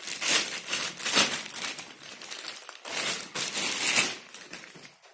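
Packaging crinkling and rustling in irregular bursts as the fan's parts are handled and unwrapped.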